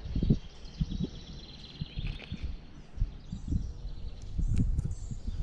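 A bird singing a thin, high trill for the first couple of seconds, over scattered low knocks and rustles of close handling.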